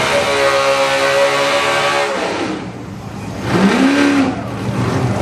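VK Holden Commodore burnout car's engine held at high revs with the tyres spinning. The revs drop suddenly about two seconds in, and after a short lull there is one sharp blip of the throttle that rises and falls.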